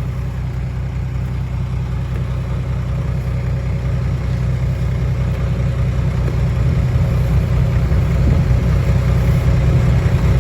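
Diesel engine of an Isuzu Rocky dump truck running steadily, growing gradually louder.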